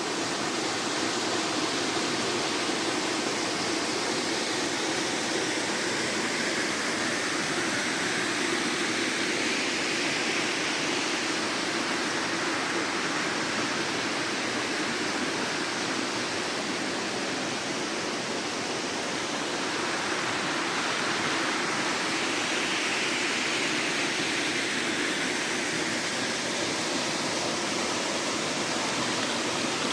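Waterfall rushing, a steady wash of falling water.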